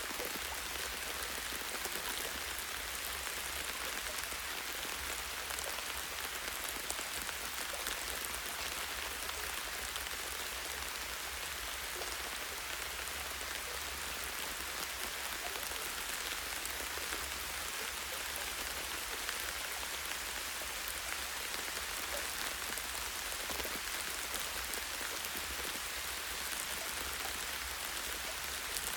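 Light, steady rain falling on tree branches and leaves: an even hiss of fine drops with many small individual drop ticks, over a steady low rumble.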